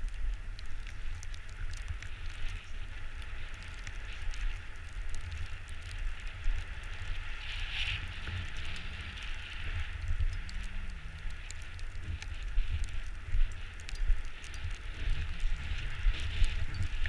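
Bicycle rolling along a forest dirt trail: the tyres crackle over gravel and twigs, with a low wind rumble on the microphone.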